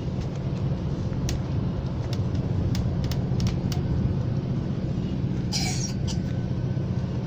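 GO commuter train running, heard from inside the passenger car: a steady low rumble with scattered clicks and a brief hiss about five and a half seconds in.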